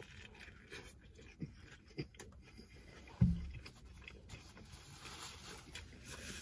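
Close mouth sounds of a man chewing a big bite of a bacon cheeseburger topped with onion rings: soft, irregular chewing, with a short low "mm" hum about three seconds in.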